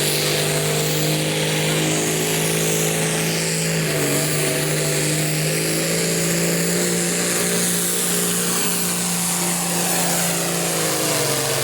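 Hot stock pulling tractor's diesel engine running at full throttle under load during a pull. It holds a steady high pitch with heavy exhaust hiss, and the pitch begins to fall just before the end as the engine comes down.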